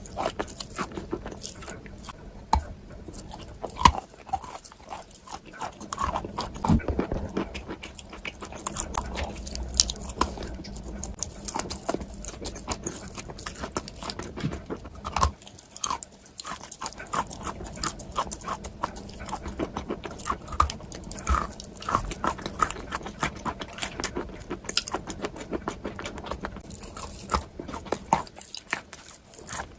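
Close-up chewing and biting sounds: dense, irregular wet clicks and crackles.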